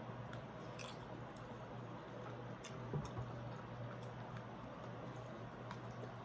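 Faint chewing and crunching while eating Caesar salad and baked chicken, with a few short clicks, over a steady low hum.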